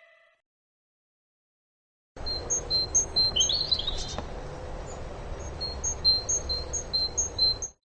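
A bird chirping: short, high, repeated notes, about two a second in the later part, over a steady background hiss and low rumble. It starts about two seconds in and cuts off abruptly just before the end.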